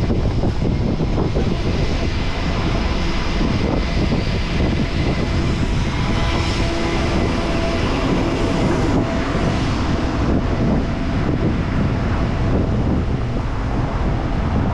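Steady rush of riding wind and street traffic noise on a cyclist's camera microphone, with a faint hum from about six to eight seconds in.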